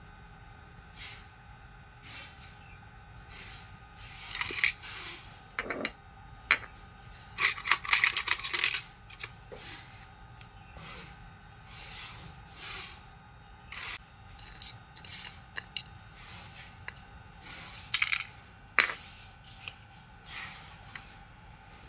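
Small metal parts and hand tools clinking and clattering during the disassembly of a Makita DHR280 rotary hammer. Irregular clicks and knocks, with a quick run of clatters about eight seconds in.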